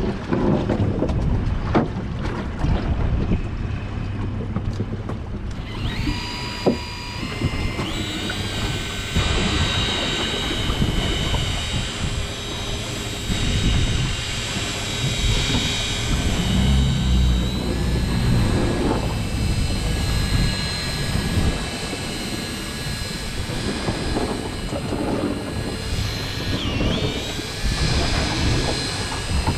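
Boat engine running under way, a steady rumble mixed with wind and water noise. A higher steady whine joins in about six seconds in.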